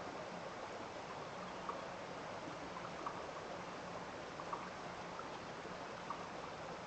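A small stream running with a steady rush of water, and brief irregular plinks about once a second.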